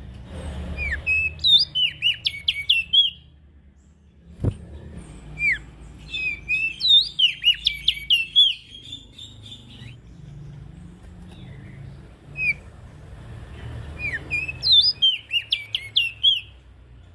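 Prenjak daun songbird singing: three bursts of rapid, high, sweeping chirps with pauses between, plus a single sharp click near the middle.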